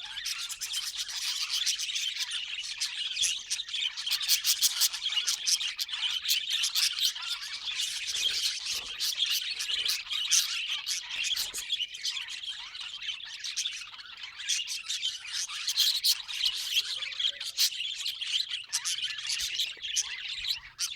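Budgerigars chattering: a continuous dense warble of rapid chirps, clicks and squawks.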